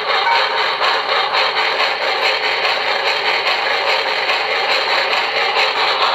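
QSI Maxx Traxx Heartland Steam sound unit playing its steam-locomotive effect through a small speaker: a steady, loud rush of steam sound.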